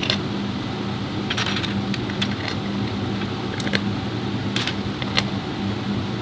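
A steady low mechanical hum, with light metallic clicks and clinks scattered through it, typical of metal parts being handled during the differential reassembly.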